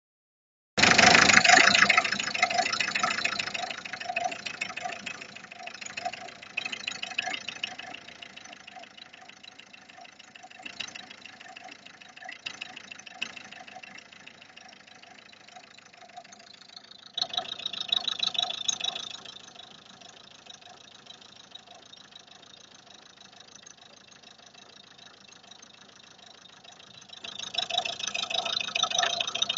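Car engine running with a rapid, steady knock that keeps time with the engine, brought up in revs briefly about 17 seconds in and again near the end. The knock is the engine fault the owner is documenting.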